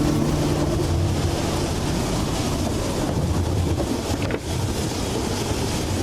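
Narrow-gauge train running along the track, a steady low rumble with wind noise on the microphone. A brief break with a click comes about four seconds in.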